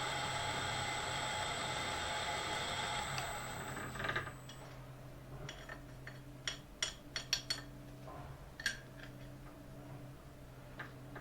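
Milling machine running steadily, then shut off about four seconds in with a knock; after that, a run of light metallic clinks as steel tooling is handled, over a faint steady hum.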